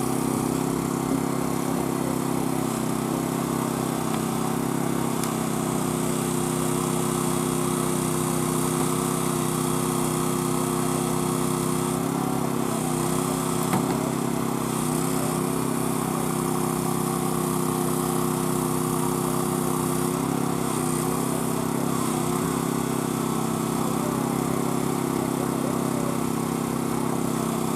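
Small gasoline engine of a hydraulic rescue-tool power unit running steadily, its pitch dipping and wavering briefly a few times as the tools take load while the car is cut open.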